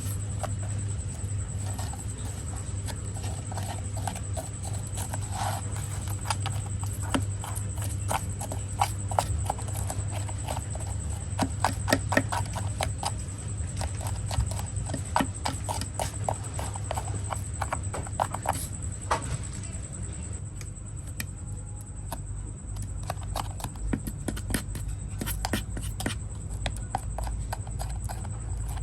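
Irregular light clicks and taps, clustered more densely around the middle, over a steady low hum.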